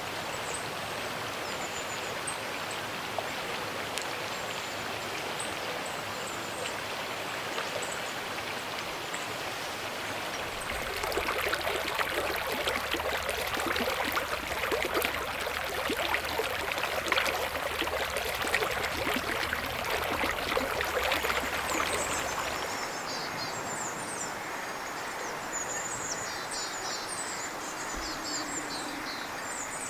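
Shallow, clear snowmelt river babbling over stones in a steady rush of water. About ten seconds in, the flow becomes louder and fuller for about twelve seconds, then drops back to the softer babble, with small birds chirping high above it near the end.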